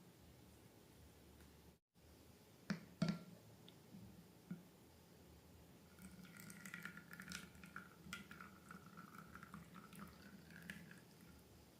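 Slime being handled: two soft clicks, then a few seconds of faint, sticky squishing and crackling.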